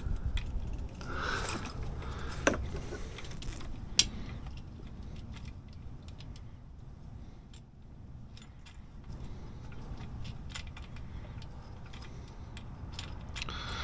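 Scattered light metallic clicks and rattles, two of them sharper about two and a half and four seconds in, as a distributor is worked and turned into its seat on a small-block Chevy 350 V8 to line up its gear.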